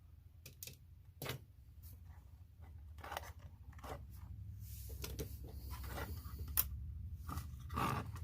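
Small clicks, taps and scrapes of hands handling the tiny parts of an Axial SCX24 1/24-scale RC crawler's rear axle and wheel, spaced a second or two apart, over a low steady hum.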